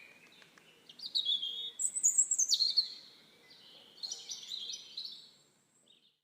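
Bird singing: a run of quick chirps and short whistled notes, busiest about two seconds in, then thinning and dying away near the end.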